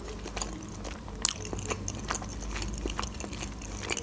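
Close-miked chewing of a boiled pelmeni dumpling: a person eating with mouth closed, with many soft wet mouth clicks and one sharper click about a second in.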